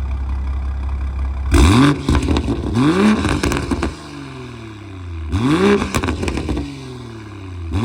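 2020 BMW M340i's turbocharged B58 inline-six, breathing through a valved cat-back exhaust and catless downpipe, idling and then revved repeatedly. Each rev climbs quickly and falls away again.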